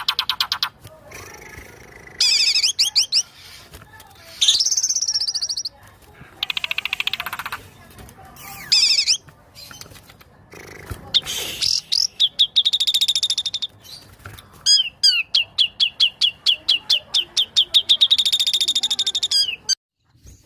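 A white-rumped shama (murai batu) singing: a string of loud, varied phrases of quick whistled notes and trills with short pauses between them, closing with a long run of rapid repeated notes that cuts off just before the end.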